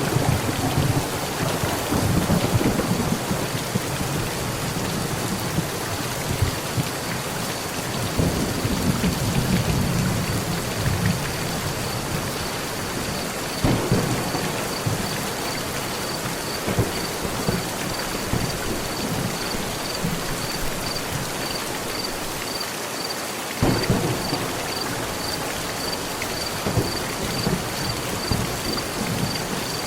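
Heavy rain drumming steadily on a metal roof, with thunder rumbling low and rolling in several swells: near the start, about a third of the way in, and again late on. In the second half a faint high chirp repeats about twice a second.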